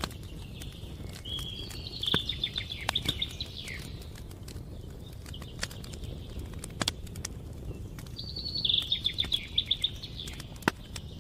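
Wood fire crackling with scattered sharp pops over a low steady rush. A small songbird sings twice, each a quick high trill lasting about two seconds, once early and again about eight seconds in.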